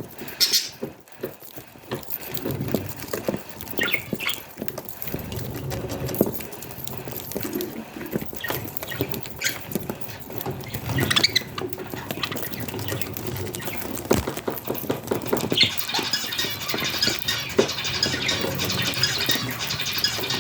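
Budgies making short high chirps among a patter of small clicks and pecks, turning into a denser, raspy high-pitched chatter near the end.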